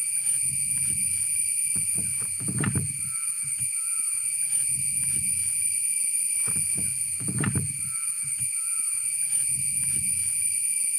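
Cicadas droning in a steady high-pitched chorus, with a few sharp knocks, about a third of the way in and twice more past halfway.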